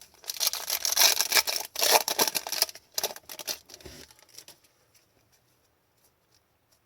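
Crinkling and rustling of a foil trading-card pack wrapper and cards being handled, loudest in the first few seconds and dying away into a few small clicks about four and a half seconds in.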